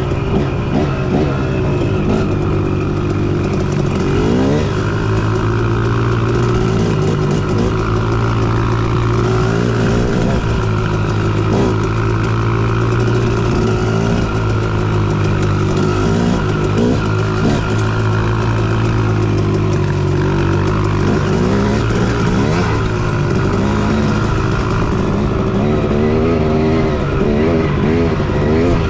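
Dirt bike engine running under way, its pitch rising and falling over and over as the throttle is worked.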